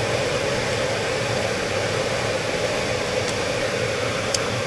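Air handler blower motor running steadily on its high-speed tap, a constant rush of moving air with a low hum underneath. A small click sounds twice, the second sharper, near the end.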